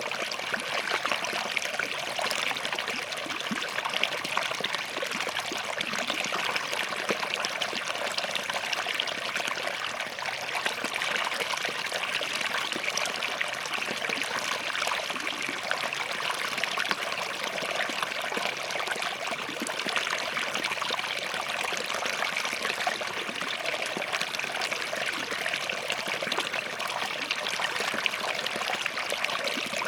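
Small forest stream flowing and trickling over rocks, a steady bright babble of splashing water.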